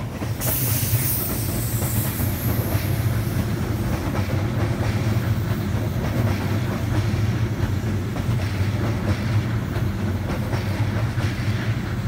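Passenger train running past with a steady low rumble, its wheels clicking over rail joints; a high hiss rises in the first few seconds.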